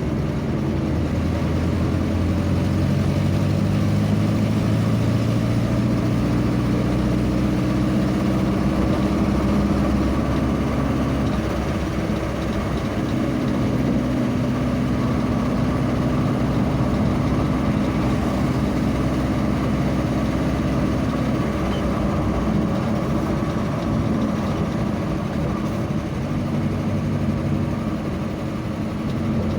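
A vehicle's engine running on the move, its pitch climbing slowly over the first ten seconds or so, then holding fairly steady with small shifts, over constant road noise.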